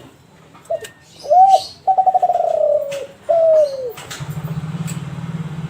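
Kelantan spotted dove (derkuku) cooing: a phrase of a short note, an arched note, a long drawn-out note that falls slowly, and a final falling note. About four seconds in, a low pulsing drone starts up and carries on.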